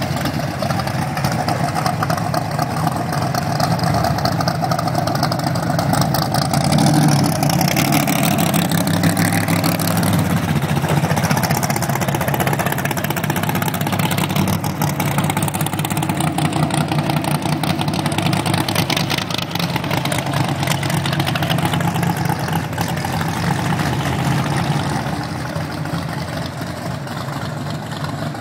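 Dodge Challenger drag car's engine running loud with a rapid, lumpy pulse, swelling in revs about seven seconds in and settling back to a rough idle.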